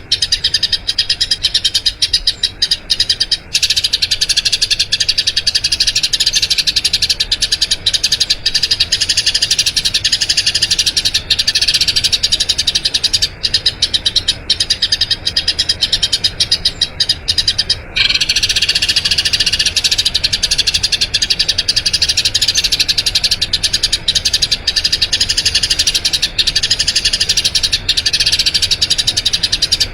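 Eurasian tree sparrows chirping in long, rapid, continuous rolls of high chirps, broken off briefly about eighteen seconds in.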